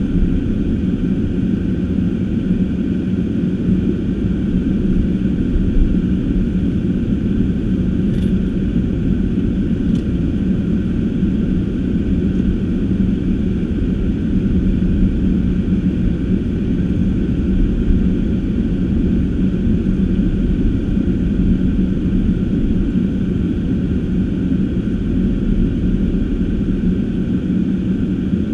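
Car driving at a steady pace on snowy streets: a continuous low rumble of engine and tyre noise with a steady hum, and a couple of faint ticks about a third of the way in.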